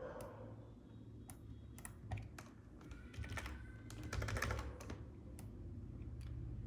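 Computer keyboard keys clicking irregularly, with a quick run of keystrokes about three to four and a half seconds in, over a steady low hum.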